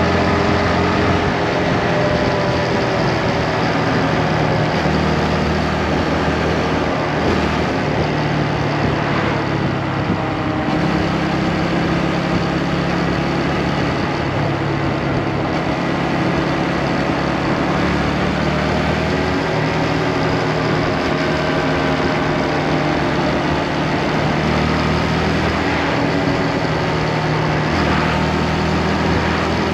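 Motorcycle engine running while riding, its note stepping and wavering up and down every few seconds, over a steady rush of wind and road noise.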